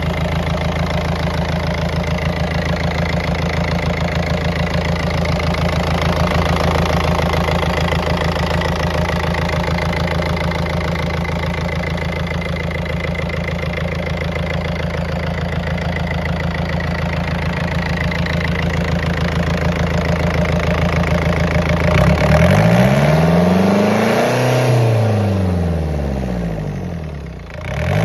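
Yanmar 4JH4 four-cylinder marine diesel idling steadily, then revved up and back down about 22 seconds in, with a brief drop near the end before it revs again.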